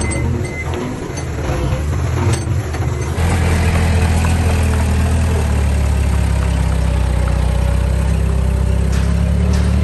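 Heavy diesel engine of a dump truck or small bulldozer running steadily at a low, even speed. It cuts in abruptly about three seconds in, after a few seconds of mixed sound.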